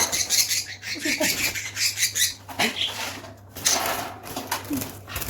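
Small pet birds chirping rapidly and moving about, with light clinks and rattles.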